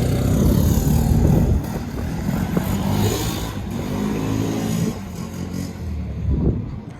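ATV engine running under throttle, its pitch rising and falling with the revs. It is loudest in the first couple of seconds and fades after about five seconds, with a short rev near the end.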